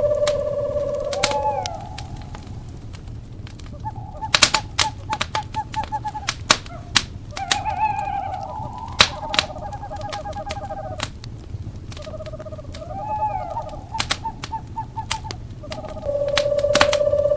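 Owl calls: long, even trills, loudest at the start and near the end, and a short call that rises and falls in pitch, over a wood fire crackling with many sharp pops.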